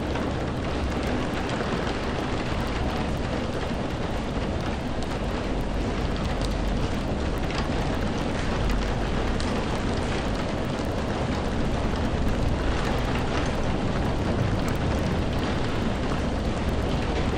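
Steady heavy rain falling, with a deep rumble underneath and faint scattered drop ticks.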